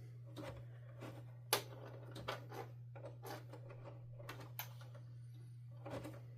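Scattered light clicks and taps of hands handling the vacuum's wires and plastic parts, the sharpest about one and a half seconds in, over a faint low steady hum.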